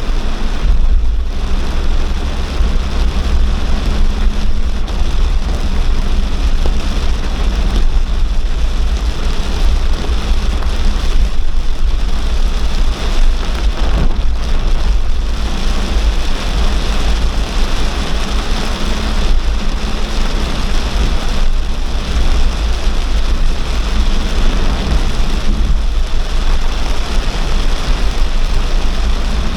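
Heavy downpour of rain pouring steadily, with a constant low rumble underneath.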